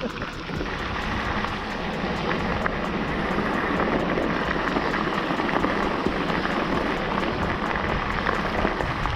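Steady rush of wind and road noise from riding a 72-volt Razor MX650 electric dirt bike.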